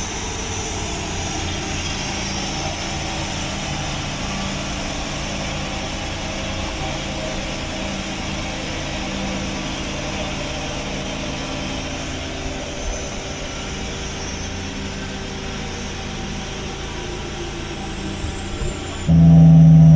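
Car engine running steadily, with a thin high whine that falls slowly in pitch. Near the end a much louder engine sound starts abruptly.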